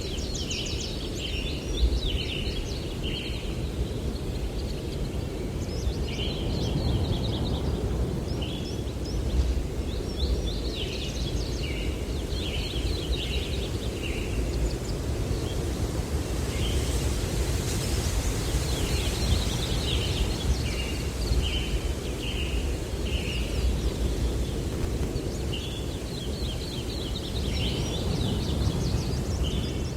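Songbirds singing in repeated phrases of short chirping notes, recurring every few seconds, over a steady low rumble of wind.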